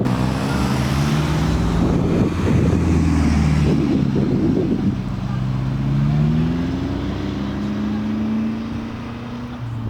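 Car engine accelerating away. A loud burst of throttle at the start and a rough rumble for the first few seconds, then the engine note rising steadily in the second half.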